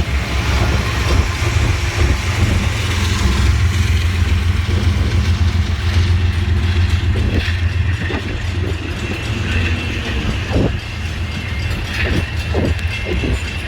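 A train passing close by: a steady low rumble with rail clatter and knocks from the wheels. A thin high whine joins about two-thirds of the way through.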